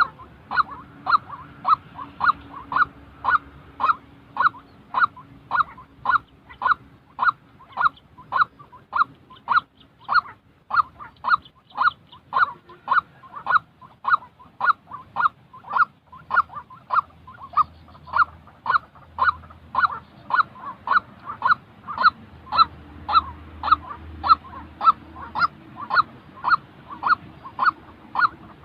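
White-breasted waterhen calling: a long, even series of short, clipped notes repeated a little under twice a second.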